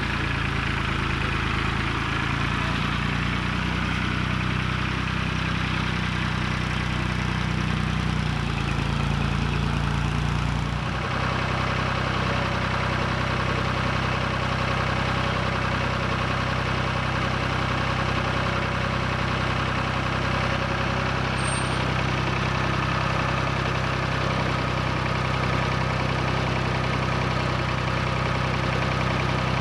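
An engine running steadily at a constant speed, its tone changing abruptly about eleven seconds in and then holding steady again.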